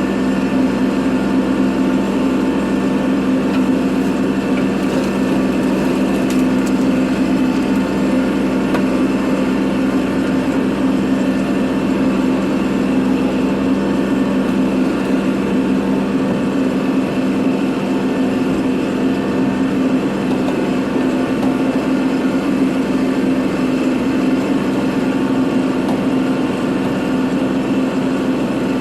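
Kubota tractor's diesel engine running at a steady speed.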